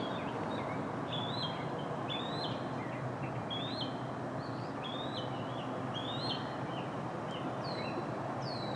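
Songbirds chirping outdoors: a short chirping phrase repeated about once a second, with quick falling whistled notes near the end, over a steady background hiss of outdoor noise.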